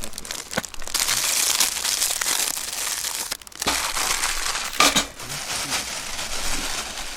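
Rustling and crinkling handling noise with a few sharp clicks; it breaks off briefly a little past the middle.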